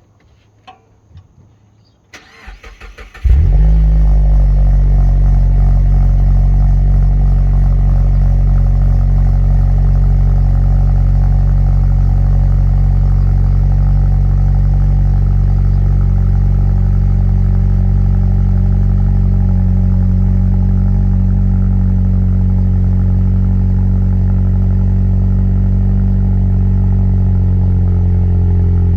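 A few faint clicks, then about two seconds in a starter cranks briefly and the Mazda 3 Turbo's 2.5-litre turbocharged four-cylinder catches with a rev flare. It settles into a steady fast cold idle through a Corksport 63.5 mm catback exhaust, easing slightly lower near the end.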